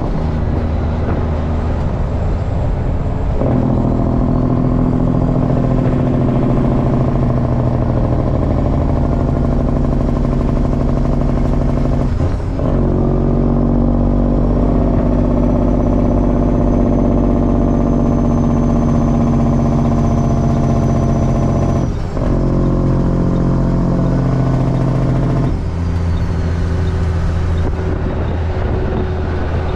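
Straight-piped semi truck's diesel engine running loud under load. Its steady exhaust note breaks briefly about twelve and twenty-two seconds in, as at gear shifts, and settles to a lower note a few seconds before the end.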